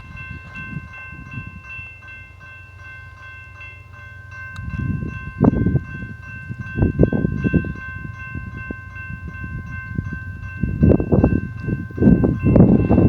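Union Pacific freight train with GE locomotives passing: low rumble that comes and goes in gusts, growing louder about halfway through and again near the end, over a steady high ringing chord of several tones.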